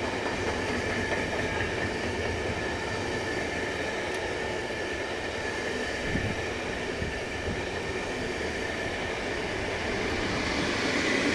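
Freight train of pocket wagons loaded with semi-trailers rolling past: a steady rumble of wheels on rail with a few wheel clicks and a held high squeal from the wheels. Near the end it grows louder as the EU07 electric locomotive at the rear of the train comes by.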